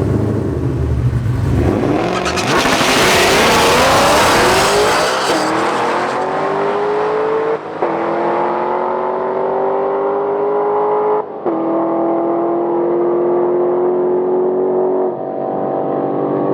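Drag cars launching down the strip at full throttle: a heavy rumble off the line, then engine pitch climbing through the gears, with two sharp breaks at the upshifts about halfway and two-thirds of the way through, the sound growing duller as the cars pull away.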